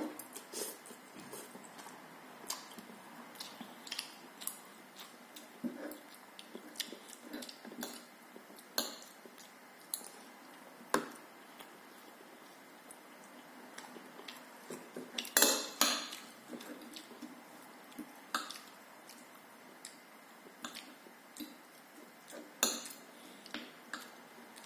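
Fork and spoon clinking and scraping against a plate while eating, in scattered irregular clinks, with a louder cluster of clatter about two-thirds of the way through.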